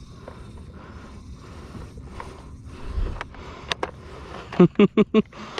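Steady water and wind noise with scattered clicks, knocks and scrapes of fishing gear handled on a kayak, and a low thump about halfway. Near the end come four short, loud pitched sounds in quick succession.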